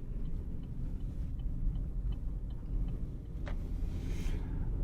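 Car cabin road rumble while driving, steady and low, with faint regular ticking about two to three times a second and a single sharp click about three and a half seconds in.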